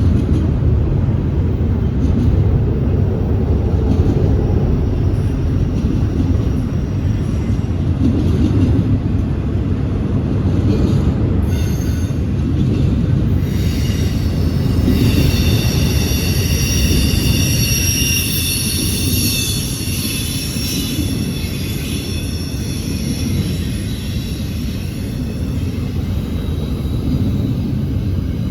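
Freight train rolling past with a steady low rumble of wheels on rail; about halfway through, the wheels set up a high, several-toned squeal that lasts for several seconds before fading.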